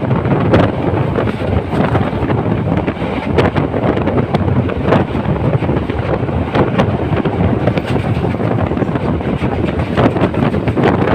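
A moving train running along the track, with a steady noise and scattered clacks and knocks, and wind buffeting the microphone.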